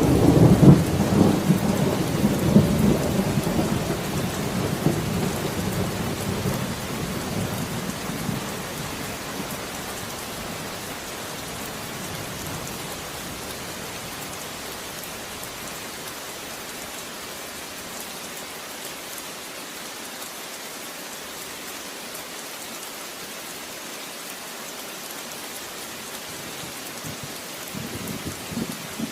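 Steady rain falling, with a clap of thunder at the start that rumbles and fades away over about eight seconds, and a fainter rumble of thunder near the end.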